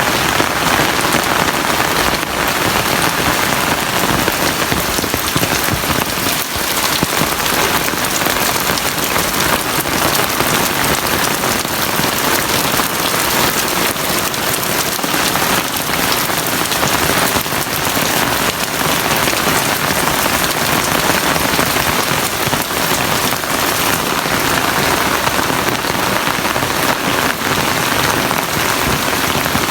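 Heavy rain falling steadily: a dense, even hiss of rain with many close individual drops.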